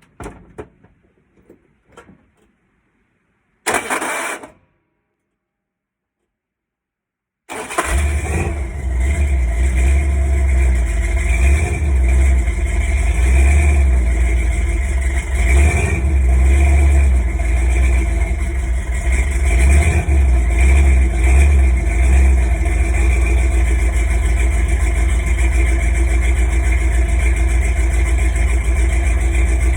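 Cold start of a 1983 Ford F-150's 351 Windsor V8: a few faint clicks, a short burst of noise about four seconds in, then the engine catches about seven and a half seconds in and runs steadily with a strong low rumble.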